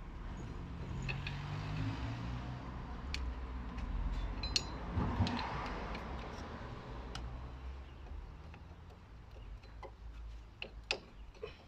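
Irregular light clicks and taps of hand tools being handled, over a low steady hum, with a short rushing swell about halfway through and more clicks near the end.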